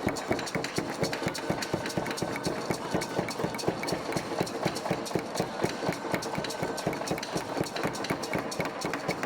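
Fast, even knocking of wooden percussion, about three strong beats a second among quicker, lighter strokes.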